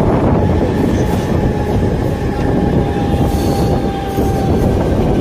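Suburban electric train running at speed, heard from an open doorway: a loud, steady rumble of wheels on the rails. A thin wheel squeal comes in about a second in and fades out near the end.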